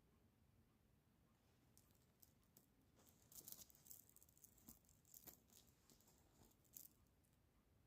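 Faint, irregular clicking and rattling of small hard objects, a scatter of light clicks for a few seconds in the middle.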